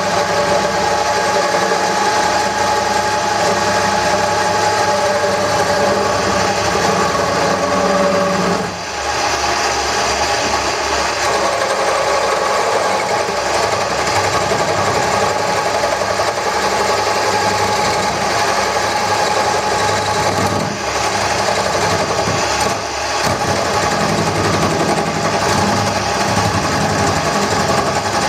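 Wood lathe running with a turning tool scraping and smoothing a spinning wooden handle blank, a loud steady machine sound with a constant hum. It eases off briefly about nine seconds in and twice more near the end.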